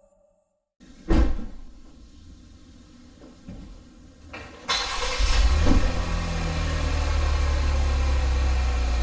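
A single thump about a second in. From about five seconds in, a car runs with a steady low rumble.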